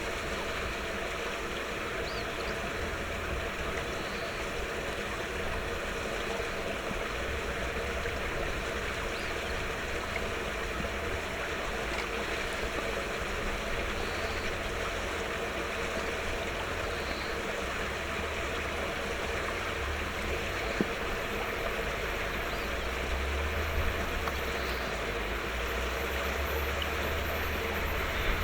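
Steady rushing background noise. A low rumble grows under it near the end.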